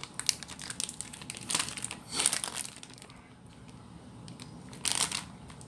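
Plastic snack wrapper crinkling in irregular bursts as it is handled and opened, with a quieter stretch in the middle and another burst near the end.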